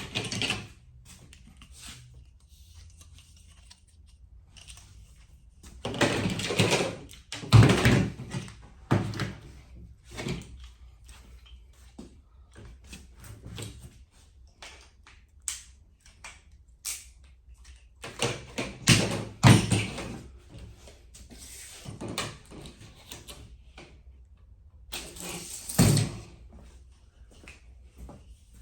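Work noises on a garage door: irregular bursts of knocks, thumps and scraping, separated by quieter gaps. The loudest bursts come about a quarter of the way in, about two-thirds of the way in, and near the end.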